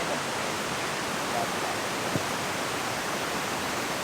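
Mountain stream rushing steadily, a constant water noise, with a single light knock about two seconds in.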